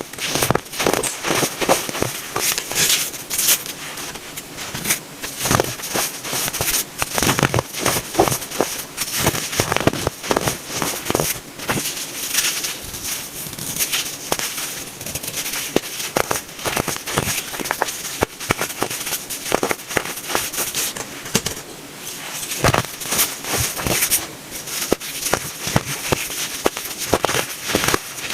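Baking soda being crunched and crushed, a dense run of irregular crackling crunches with no pause.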